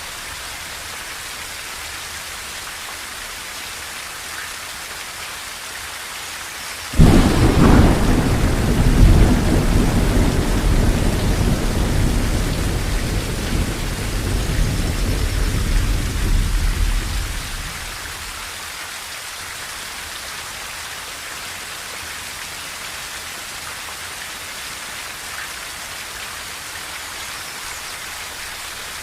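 Steady rain on a tin roof. About a quarter of the way in, a sudden thunderclap breaks in and rumbles on for about ten seconds before fading back under the rain.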